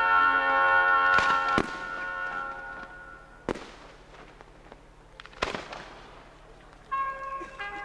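Fireworks going off: single sharp bangs about one, one and a half, three and a half and five and a half seconds in. They sound over held brass chords that break off after the first bangs and start again near the end.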